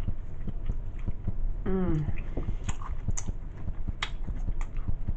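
Close-miked chewing of a Subway sandwich: a steady run of wet mouth clicks and crackles from biting and chewing. A short voiced hum falls in pitch about two seconds in.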